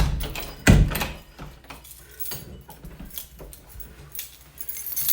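Keys jangling and a front door being handled, with two heavy knocks in the first second, then lighter clicks and rattles.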